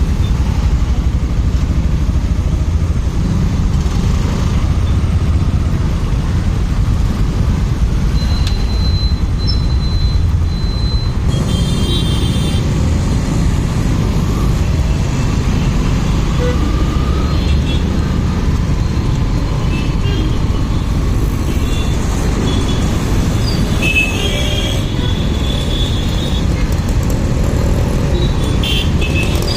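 Motorcycle riding through traffic: a steady, loud rush of wind on the microphone over the engine and road noise, with a few short, high-pitched tones from the traffic about a third of the way in and again later.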